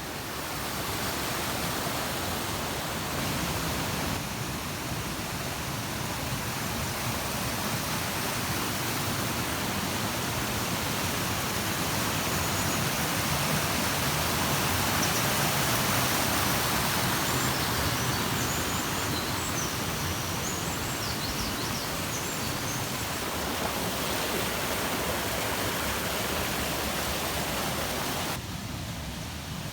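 Shiraito Falls, a wide curtain of water spilling from a rock face in many thin strands, rushing as a steady even noise. The sound shifts abruptly about four seconds in and shortly before the end.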